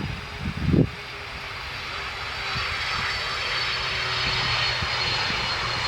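Jet airliner's engines growing steadily louder as it approaches, a spread-out roar with a thin, steady high whine over it. Wind buffets the microphone in the first second.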